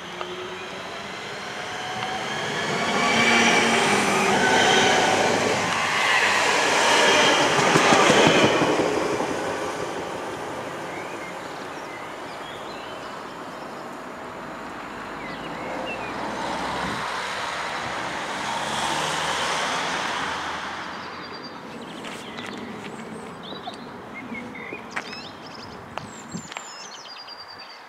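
A Class 323 electric multiple unit passing close by, its traction motors whining in several steady tones over the rumble of its wheels on the rails, loudest about three to eight seconds in before fading away. A second, quieter swell of train noise comes about two-thirds of the way through, then birds chirping near the end.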